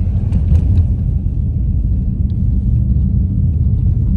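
Steady low rumble of a car driving on a snow-covered road, heard from inside the cabin, with a few faint ticks in the first second.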